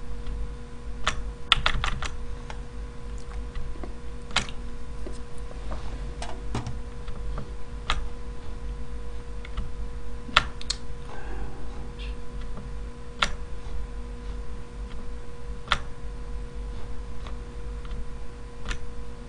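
Computer keyboard keys clicking sporadically, single clicks a second or two apart with a quick run of several about one and a half seconds in, over a steady faint electrical hum.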